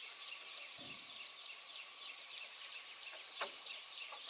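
Outdoor insect chorus: a steady high buzzing with many short, quickly repeated falling chirps, broken by a few soft knocks.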